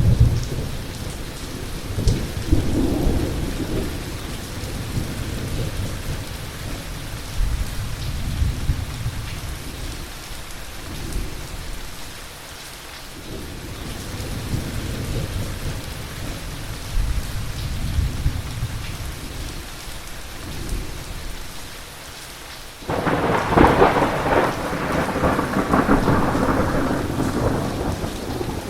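Steady rain with low thunder rumbling and rolling, easing off briefly about halfway through. Near the end a sudden, louder thunderclap breaks in sharply and keeps rumbling.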